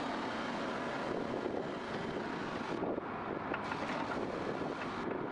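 Heavy earthmoving machinery's diesel engine running with a steady rumble, with a few faint clicks about three to four seconds in.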